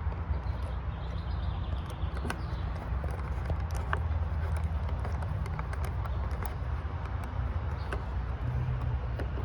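Scattered light clicks and knocks of hands handling and fitting plastic air-intake parts, over a steady low rumble.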